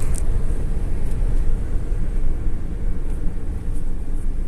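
Road and engine noise of a car driving steadily, heard from inside the cabin: a continuous low rumble with faint light ticks.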